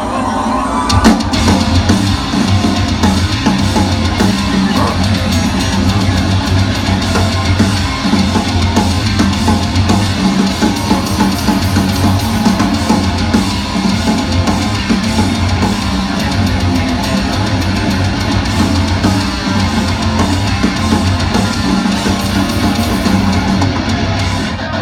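Live hardcore metal band playing loud with electric guitars, bass and drum kit, the full band kicking in with a hit about a second in.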